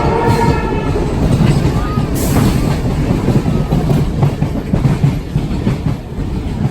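Heritage train running on the rails, its wheels rumbling and clattering over the track. A held horn tone ends about half a second in.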